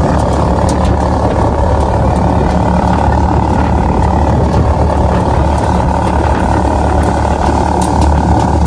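Motorbike engine running steadily at an even speed, a low hum over dense mechanical noise, with a few faint ticks.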